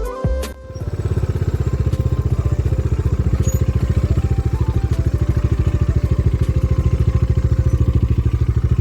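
Background music cuts off within the first second, then a motorcycle engine idles steadily with an even, rapid pulsing beat.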